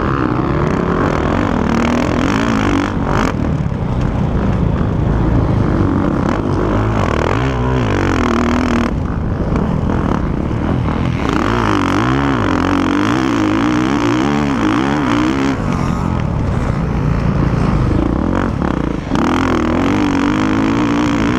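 Motocross bike engines revving hard, their pitch climbing and dropping over and over as the bikes accelerate and shift, with more than one engine heard at once in places.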